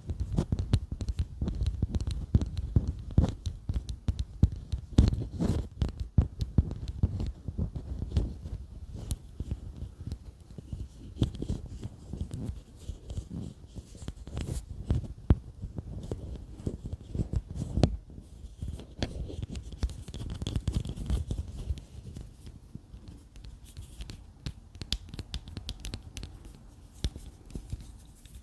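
ASMR tapping and scratching close to the microphone: a dense run of quick, irregular soft taps and scrapes, getting lighter in the last few seconds.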